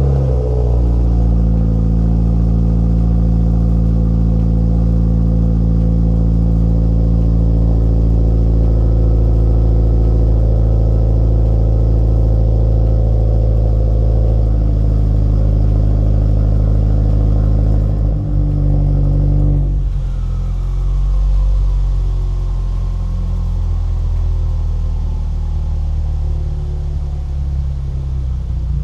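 Subaru WRX's turbocharged flat-four idling high and steady just after a cold start, heard through a Nameless axleback muffler-delete exhaust. About twenty seconds in, the idle drops and turns less even.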